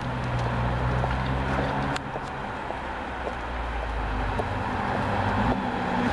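Nissan GT-R R35's twin-turbo V6 engine running at low, steady revs as the car drives slowly toward and past, its low engine note growing a little louder near the end.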